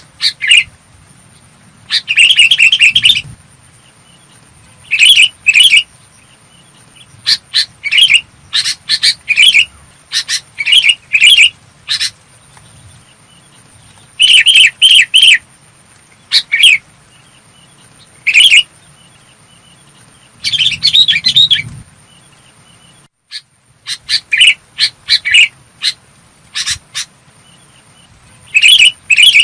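Sooty-headed bulbul singing clear, bubbly phrases of short notes, in bursts every second or two with short pauses between. A faint steady high-pitched whine runs underneath.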